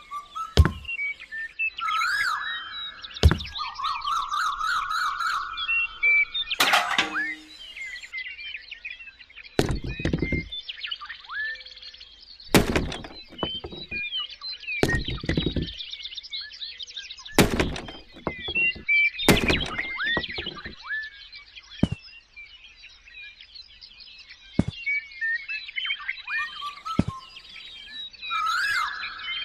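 Irregular knocks and thuds, about ten of them spaced unevenly, over a continual light chirping.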